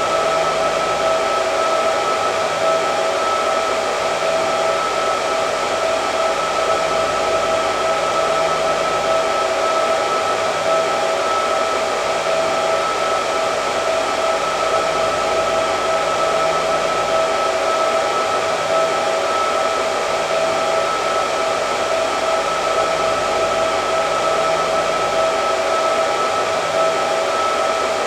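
Hair dryer running steadily: a constant rush of air with a steady whine from the motor.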